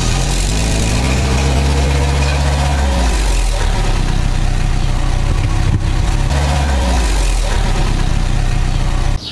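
Car engine running with a steady low drone whose pitch shifts about three seconds in and again around seven seconds. The sound cuts off abruptly just before the end.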